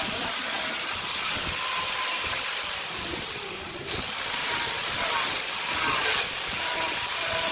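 Power woodworking on a burl log: a steady, loud cutting hiss, likely a lathe tool taking shavings off the spinning burl. It eases off briefly about halfway through, then comes back abruptly.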